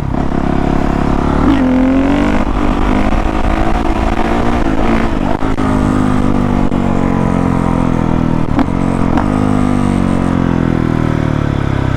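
2019 Honda CRF450R's single-cylinder four-stroke engine pulling hard in third gear as the front wheel lifts into a wheelie. The pitch dips about a second and a half in, then climbs and holds, and eases off near the end.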